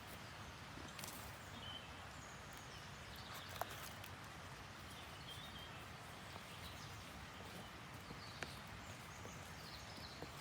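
Faint steady hiss of outdoor ambience, with a few light clicks and several short, high chirps.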